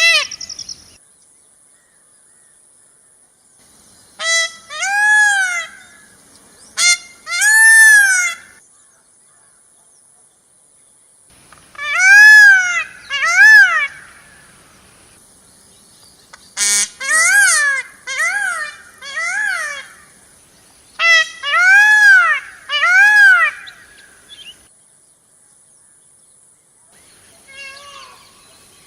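A bird giving loud honking calls, each rising and falling in pitch, in groups of two or three with pauses of a few seconds between groups. A faint steady high hiss runs behind much of it.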